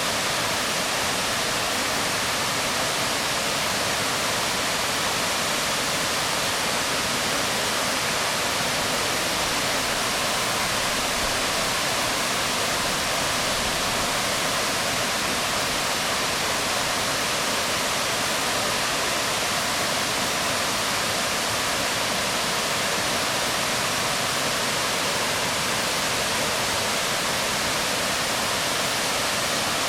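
Waterfall pouring onto rocks: a steady, even rush of falling water with no breaks or changes.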